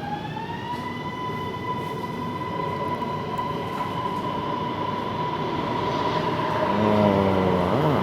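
Electric metro train heard from inside the carriage: the traction motor whine rises in pitch as the train speeds up, then holds a steady tone over the ride noise at cruising speed. A short wavering tone rises over it near the end.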